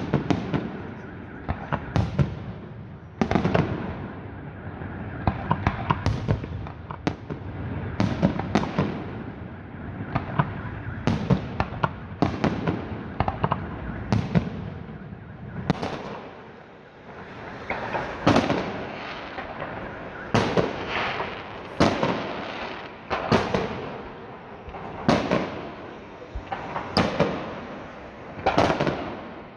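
Fireworks going off: a long run of sharp bangs about once a second, some in quick clusters, with rumbling echo between them.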